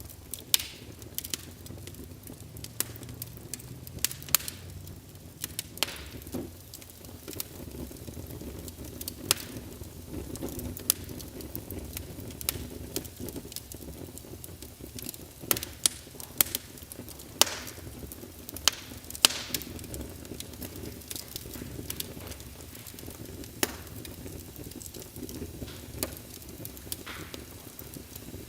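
Wood fire burning in a fireplace, with a steady low rumble of flames and frequent irregular crackles and sharp pops.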